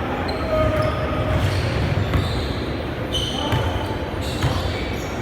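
Basketball being dribbled on a gym floor during a game, with short high squeaks of sneakers and players' voices in a large echoing hall.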